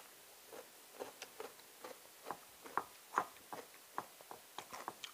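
Eating sounds: a person chewing a mouthful of sticky rice and canned-fish salad, with faint irregular wet clicks and lip smacks a few times a second.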